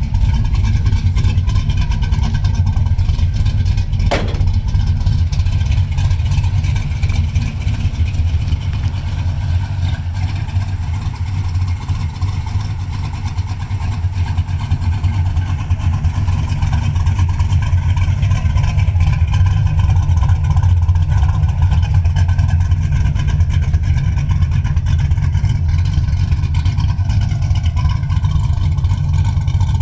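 1976 Chevrolet Camaro's engine idling steadily, its sound mostly a deep, low note, with a single sharp click about four seconds in.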